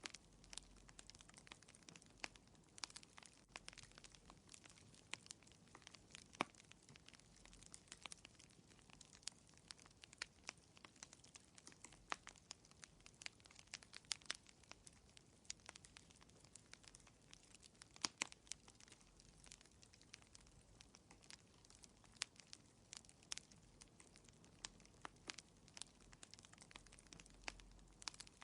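Wood fire crackling in a fireplace: quiet, irregular pops and snaps at uneven strength over a faint hiss.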